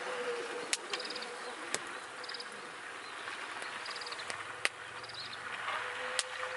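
Wood campfire crackling, with about five sharp pops over a steady hiss, while an insect chirps in short trilled bursts about once a second.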